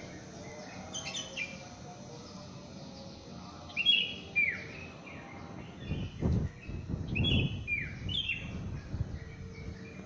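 Birds chirping: a series of short calls, each sliding down in pitch, coming thickest in the second half. A low, uneven rumble swells underneath for a second or two in the middle.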